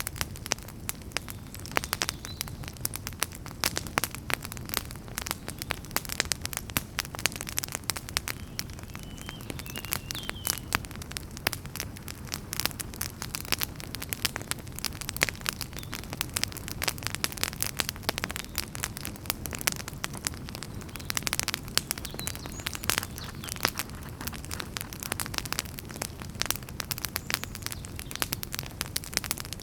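Wood fire burning in a fireplace, crackling with frequent small pops over a low, steady rumble of flames.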